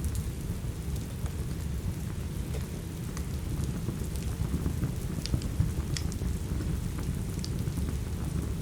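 Steady rain together with a wood fire crackling in a fireplace: a constant low rumbling hiss with scattered sharp pops, the loudest few coming about five to six seconds in.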